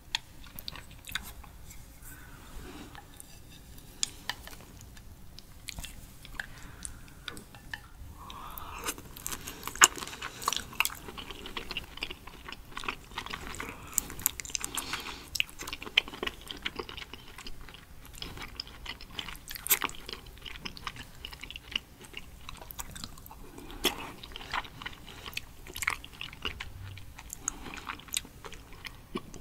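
Close-up chewing of raw seafood, sweet shrimp and sea urchin roe: wet mouth sounds with many short, sharp clicks scattered throughout.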